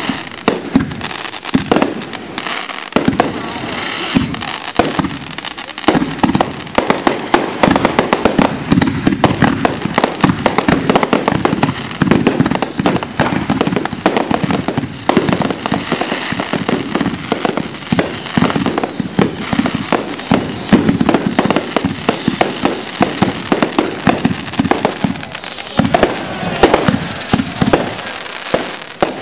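Consumer fireworks finale: many cakes and reloadable aerial shells firing together, a dense, continuous barrage of launches and bursting breaks with crackle.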